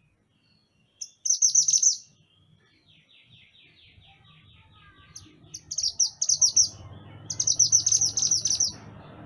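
Mantenan gunung songbird singing: three bursts of rapid, high chattering trills. A softer, evenly paced series of lower notes runs between the second and third bursts, and a low background rumble builds near the end.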